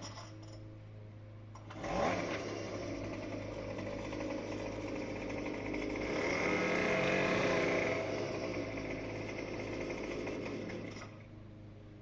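Small gasoline engine of a yard tool starting up about two seconds in, running steadily and getting louder for a while, then shutting off near the end.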